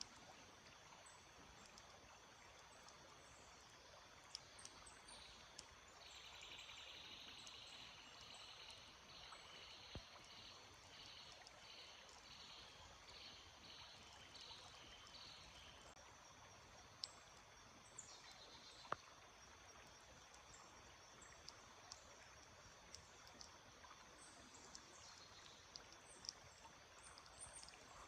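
Faint steady rush of a stream. Over it, from about six seconds in, a high buzzing trill starts, then breaks into even pulses about one and a half times a second for some ten seconds. Short high chirps come and go.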